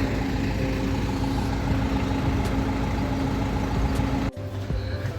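A vehicle engine idling steadily with a constant hum. It cuts off abruptly about four seconds in, leaving a lower, steady hum.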